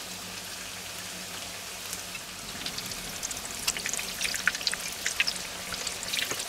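Breaded zucchini and kohlrabi slices shallow-frying in hot oil in a pan: a steady sizzle with crackling spits that grow busier from about two seconds in as the slices are turned.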